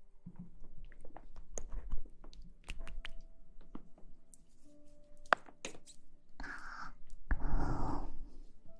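Close-miked ASMR rustling: scattered crisp clicks and small taps, then two longer rustling sweeps near the end.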